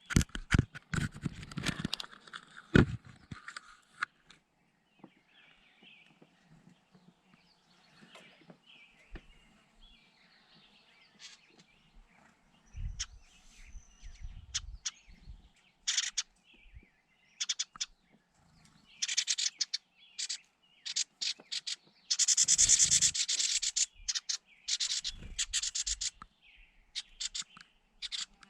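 Birds chirping faintly, with bursts of loud, scratchy rubbing noise in the second half.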